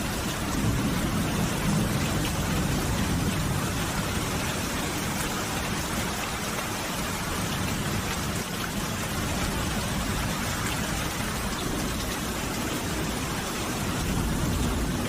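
Steady rain falling, with a deeper rumble swelling in the background near the start and again near the end.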